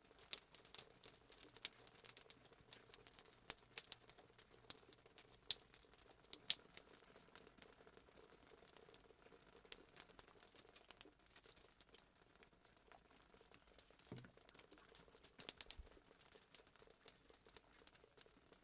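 Fireplace sound effect: a wood fire crackling faintly, with irregular sharp pops and snaps.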